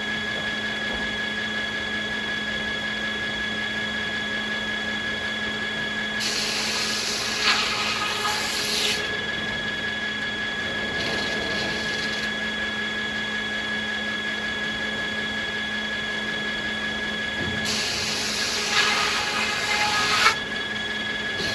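Sawmill saws running steadily with a constant hum and whine, making two cuts through beech wood, about 6 and 18 seconds in, each a loud, high, rasping stretch of two to three seconds.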